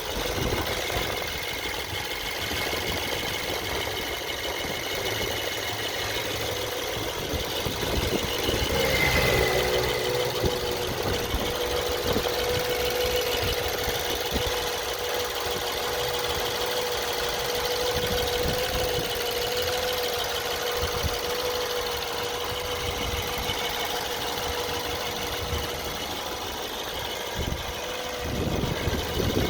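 A BMW 318i's N43 four-cylinder petrol engine running steadily. The engine has an intermittent knock. Its note changes briefly about nine seconds in.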